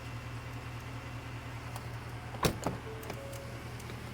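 A vehicle running with a steady low hum, with one sharp click about two and a half seconds in.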